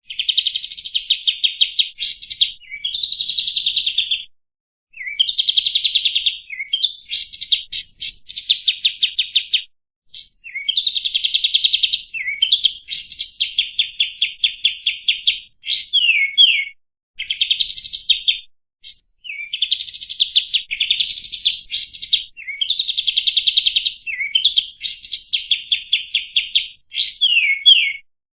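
A kapas tembak bulbul singing: a run of loud, chattering song phrases a second or two long with short pauses between. Each phrase is a rapid trill of repeated notes, with quick falling slurs mixed in.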